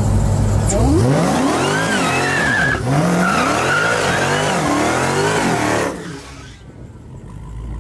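Car engine idling, then about a second in it launches hard and revs up through several gear changes, each a rising whine. The sound falls away sharply about six seconds in as the car pulls off.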